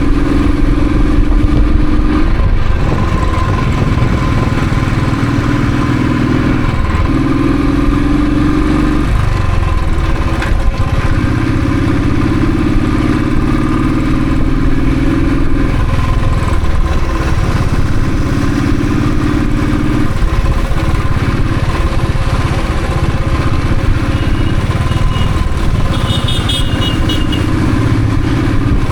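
Royal Enfield Thunderbird's single-cylinder engine under way. Its pitch rises as the bike pulls through each gear and drops at every shift, several times over. A brief high chirping near the end.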